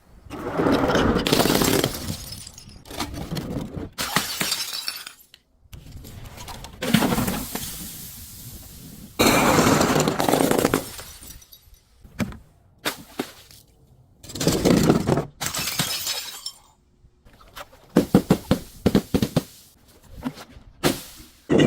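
Glass bottles being broken one after another: several separate bursts of shattering and crunching glass, each starting sharply, some lasting a second or two, with short gaps between them.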